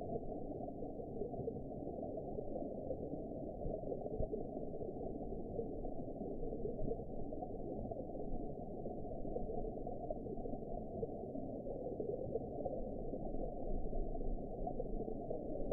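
Underwater ambience: a steady, muffled low rushing of water, with no highs at all and no separate events.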